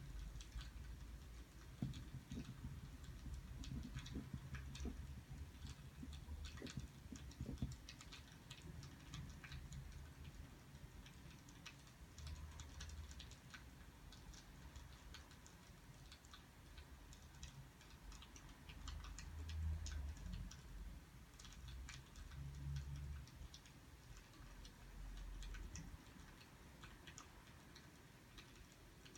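Faint crackling of a burning wood fire: small irregular snaps and pops, over a low rumble that swells and fades a few times, loudest about two-thirds of the way through.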